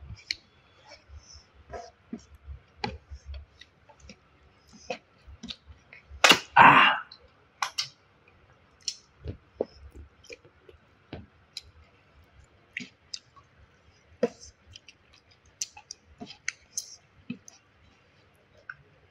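Close-up mouth sounds of someone eating rice and curry: scattered wet chewing clicks and lip smacks. A single louder, short noisy sound comes about six seconds in.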